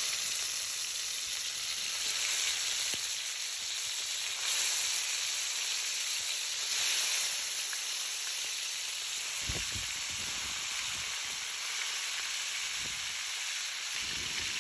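Marinated chicken pieces sizzling in hot oil, the frying hiss swelling a little each time more pieces are laid into the pan.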